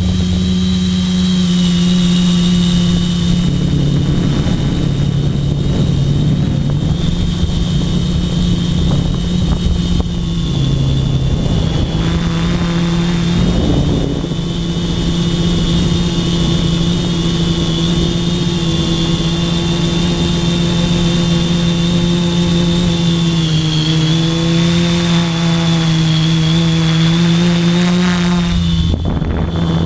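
Parallax Elev-8 V3 quadcopter's electric motors and propellers running steadily in flight: a loud buzzing hum with a high whine over a rough rush of air, the pitch dipping and rising again about two-thirds of the way through.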